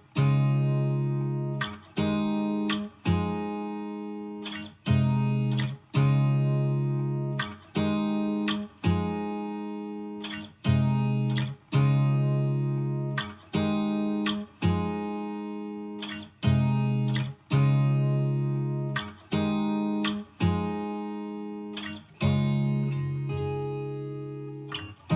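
Background music: acoustic guitar playing slow plucked chords, each struck and left to ring out, about one chord every second or so.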